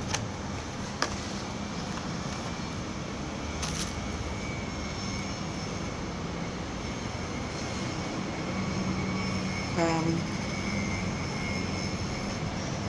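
Steady background engine noise with a faint high whine, a brief click about a second in and a short pitched sound about ten seconds in.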